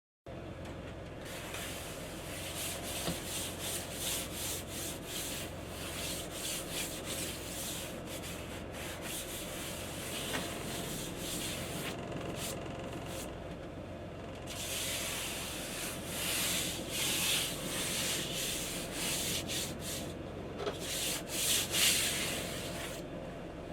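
Surface being sanded: continuous scratchy sanding in uneven strokes, preparing a panel before acetone cleaning and painting.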